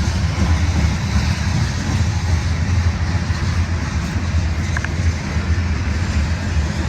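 Freight train rolling past, a loud steady rumble.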